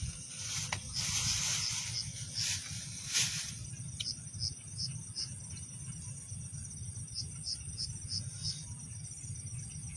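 Night insects calling: a steady high-pitched whine with a regular high chirp about three times a second. Two short stretches of hiss come in the first few seconds, over a steady low rumble.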